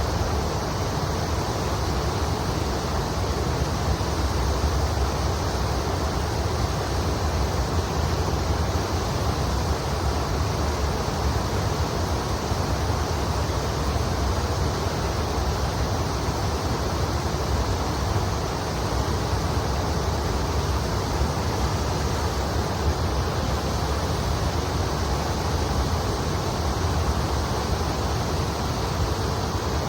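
Shallow river water rushing steadily over its stony bed, an even, unbroken noise.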